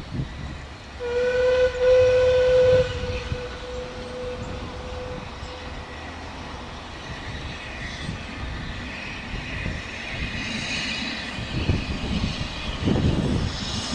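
Steam locomotive whistle blowing one steady note for about two seconds, then trailing off over the next few seconds. It is followed by a hiss and low rumbling from the train.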